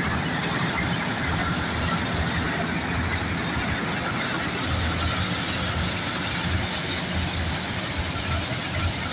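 New Holland combine harvester running steadily, its engine and machinery making a constant drone with a broad hiss over it.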